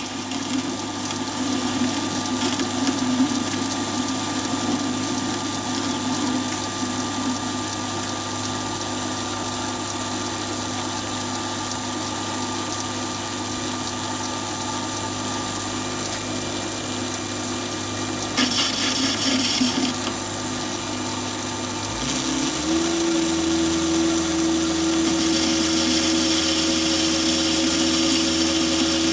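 Chinese mini lathe running with a steady high whine. There is a short rougher hiss around 18 to 20 seconds in, and about 22 seconds in the motor's pitch steps up as the speed is raised.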